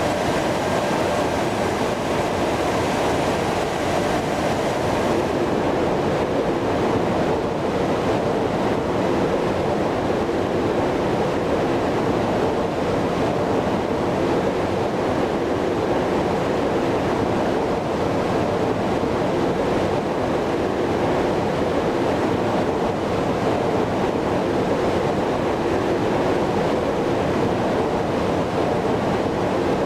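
Steady jet airliner roar of an Airbus A330-300's engines and rushing air, an even noise with no change in pitch; the highest hiss fades a little about five seconds in.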